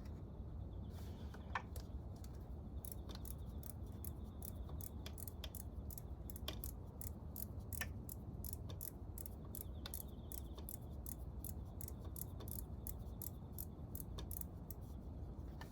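Sharp, light clicks at an irregular pace of a few a second, over a low steady hum.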